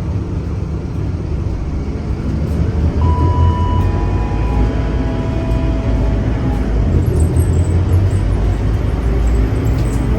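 Scania K310UA bus's diesel engine running with a steady low rumble that grows a little louder about three seconds in, as if pulling under load. A faint whine comes in over it for a few seconds in the middle.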